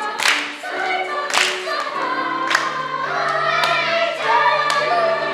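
Children's choir singing held notes over instrumental accompaniment, with a sharp percussive beat about once a second.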